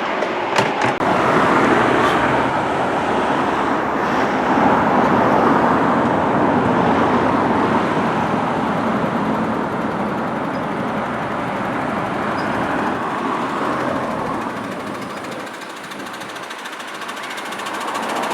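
Miniature railway train running, a steady rushing, rumbling noise that drops away about three-quarters of the way through and then grows louder again near the end.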